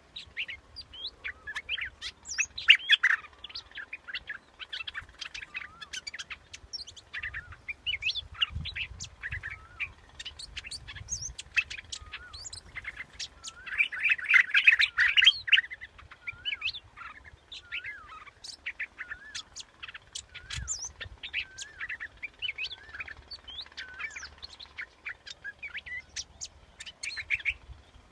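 Bulbul song (the bird known in Thai as nok dok taeng): a run of quick chirps and short, bubbly warbled phrases, with a dense burst of calling about halfway through.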